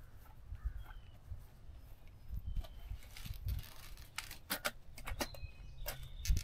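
Outdoor background with a few faint, short bird chirps over a low rumble. A cluster of sharp clicks or knocks comes a little past the middle.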